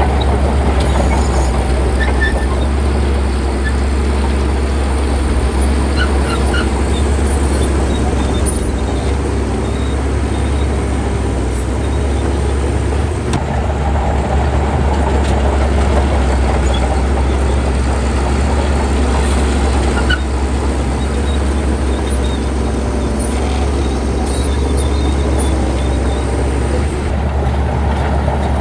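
Shantui bulldozer's diesel engine running steadily: a loud, low drone, with a few faint clinks scattered through it.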